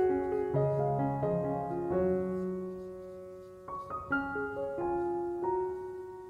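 Background piano music: soft chords and single notes struck and left to ring and fade, a new chord every second or two.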